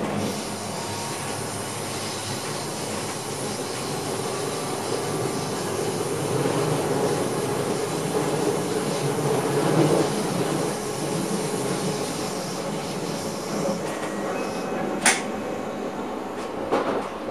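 Dutch NS passenger train running on the line, heard from inside the driver's cab: a steady rumble of wheels on rails that swells a little midway. A single sharp click comes about fifteen seconds in, and a few knocks come near the end.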